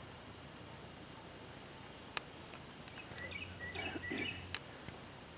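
Insects droning in a steady high-pitched chorus, with a few short chirps in the middle and two sharp clicks, about two seconds in and again near four and a half seconds.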